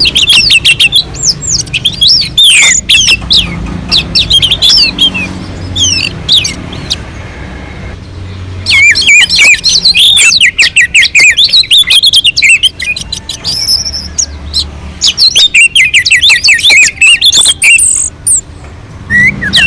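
Orange-headed thrush singing a fast, varied song of quick gliding whistles and chattered notes, pausing for about a second and a half partway through before bursting back in.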